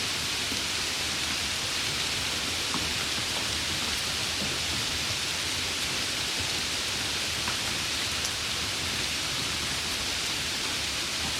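Steady rain falling on a surface: an even hiss with scattered droplet ticks.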